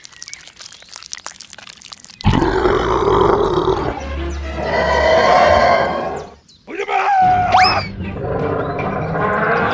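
Animal roar sound effect over background music, starting loudly about two seconds in after a quieter stretch, with a short break near the middle.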